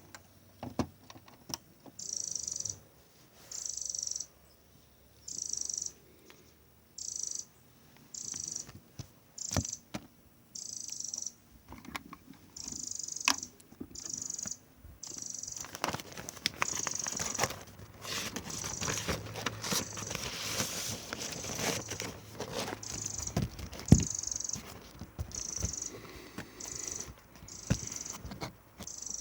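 Vinyl record surface noise after the final track: scattered clicks and crackle with recurring short bursts of hiss, denser for several seconds in the middle.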